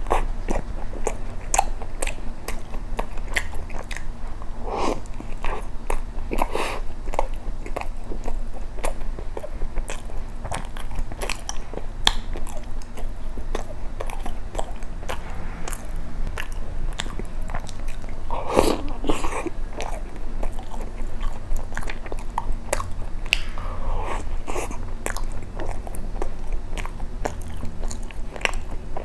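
Close-miked biting and chewing of soft cream bread soaked in milk: wet mouth noises and many small clicks, with heavier chewing about two-thirds of the way through.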